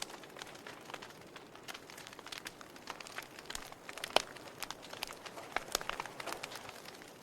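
Wood fire crackling in a fireplace: irregular sharp pops and snaps over a soft hiss, the loudest pop about four seconds in.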